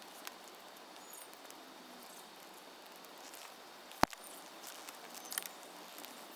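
Wood fire burning a tree stump, with faint scattered crackles and one sharp pop about four seconds in, followed by a few smaller snaps.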